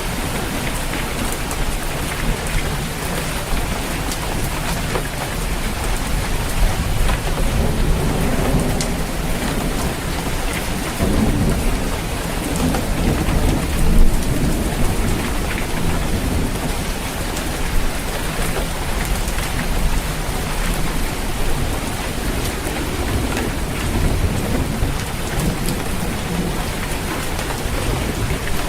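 Steady heavy rain drumming on a roof, with a long low rumble of thunder swelling through the middle.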